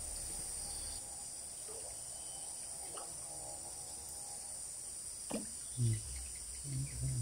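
Steady, high-pitched chorus of insects buzzing without a break, with a few short low sounds near the end.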